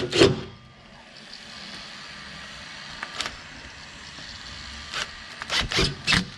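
Porsche 991.1 GT3's flat-six engine idling steadily after a fresh oil fill, run to check for oil leaks. A few sharp knocks come at the start and again about five to six seconds in.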